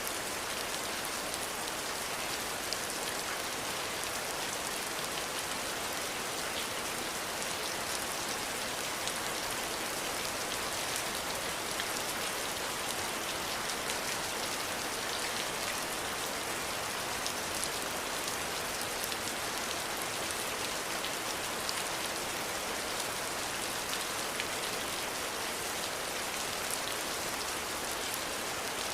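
Steady rain falling on a surface, an even hiss with many fine drop ticks and no thunder or other sounds.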